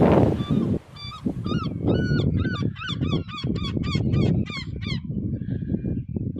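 Geese honking: a quick run of calls, several a second, starting about a second in and stopping about five seconds in, over a low rumbling noise.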